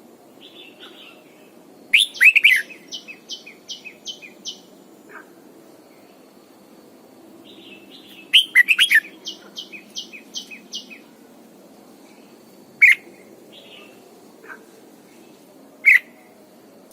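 Red-whiskered bulbul singing: twice a loud slurred phrase followed by a quick run of about six short notes, then two single sharp notes later on.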